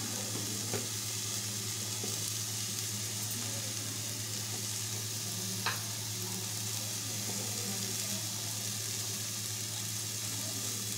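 Chopped onion, capsicum and tomato sizzling steadily in hot oil in a kadai, under a steady low hum. A faint click comes a little before six seconds in.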